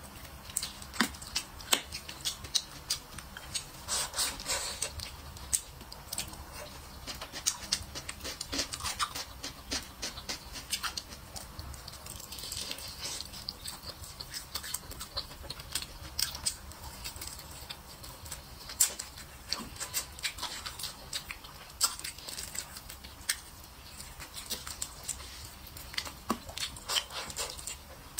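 Close-miked chewing of roast chicken: a dense, irregular run of sharp wet mouth clicks and smacks as she bites and chews.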